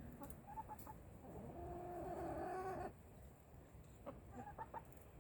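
Chickens clucking softly: a few short clucks, then one drawn-out call lasting about a second and a half, then more short clucks near the end.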